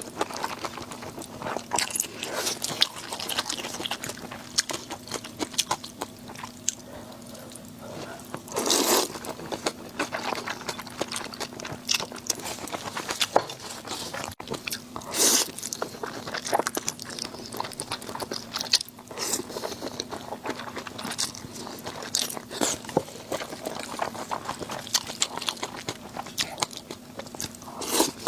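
A person eating close to the microphone: repeated crunching and chewing, with a few louder, longer crunches about nine, fifteen and twenty-eight seconds in.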